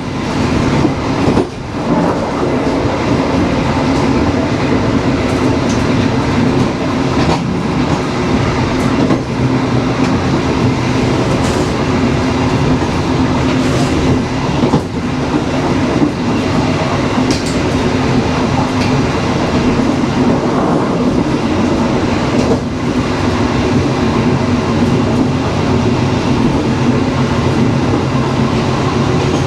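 Passenger train running along the rails: a steady rumble with a few scattered knocks from the wheels over the track.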